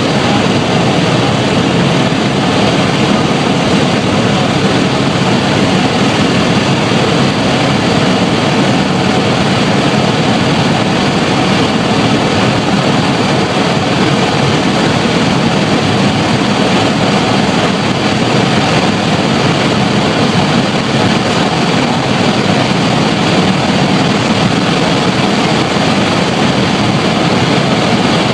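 Helicopter in flight, its rotor and engine giving a loud, steady drone.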